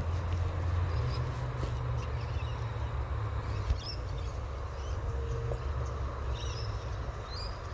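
Outdoor ambience: a steady low rumble, with a few short, high bird chirps about four and six and a half seconds in and a single sharp knock just before four seconds.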